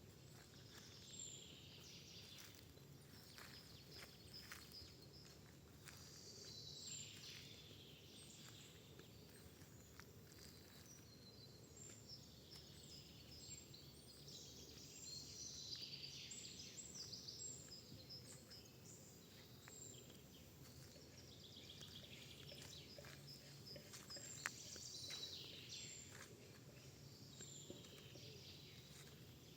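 Faint birdsong: small birds chirping and trilling in short phrases that come and go every few seconds, with a few light clicks.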